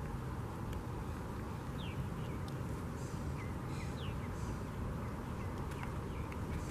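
Small birds giving a few short, thin, falling chirps over a steady low rumble; no loud call stands out.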